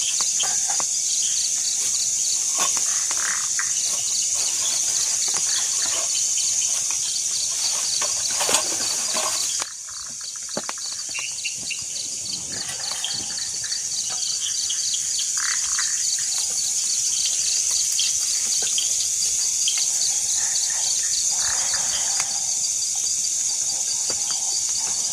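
Forest insect chorus: a dense, steady high-pitched buzz with rapid pulsing cricket chirps beneath it. Scattered light clicks and knocks mix in, and the sound drops suddenly for a moment about ten seconds in.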